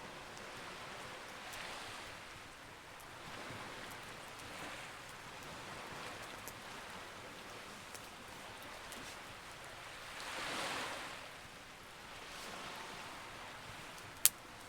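Campfire crackling with scattered small pops and one sharp, loud pop near the end, over waves washing in and out in slow swells.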